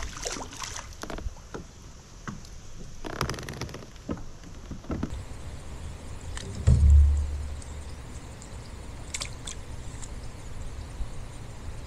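Knocks and clicks of handling on a kayak, with one loud low thump about seven seconds in, over a steady low rumble of wind on the microphone.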